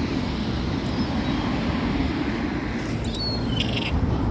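Steady low rumble of outdoor background noise, with a few short, faint herring-gull-type seagull calls near the end.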